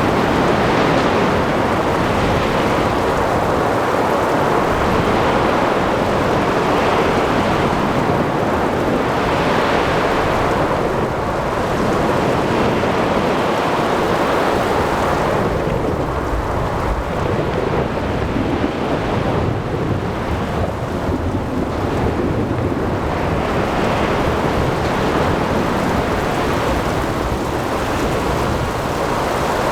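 Ocean thunderstorm: heavy rain and rumbling thunder mixed with waves and wind, a steady dense rush that swells and eases every few seconds.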